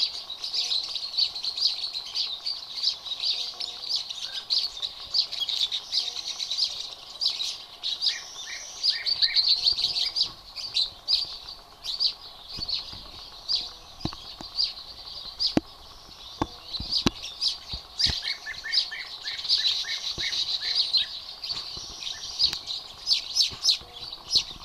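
Many small exotic birds chirping and twittering at once in a dense, unbroken chorus of short high notes, with a few sharp clicks in the middle.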